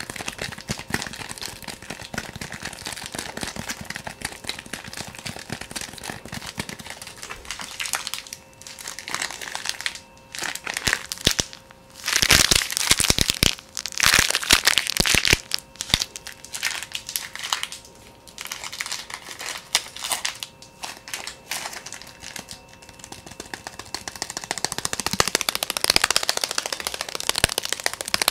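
Fast ASMR tapping: a rapid, continuous run of soft taps and clicks, growing louder and denser about halfway through and again near the end.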